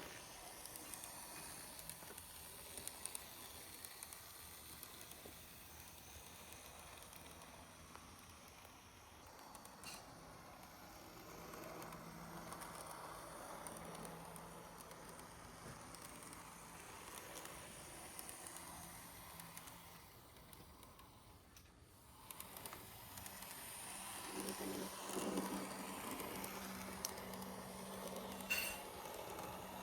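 Märklin Z scale V90 diesel model locomotive running on track: the faint whir of its tiny motor with a light crackle of wheels on rail. The sound dips away briefly about two-thirds of the way through, then comes back a little louder with a slightly higher hum.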